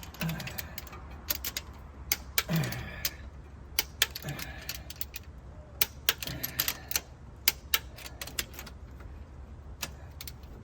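Wrench ratcheting and clicking in short irregular bursts, with metal tools clinking, as cylinder head bolts are torqued and re-checked.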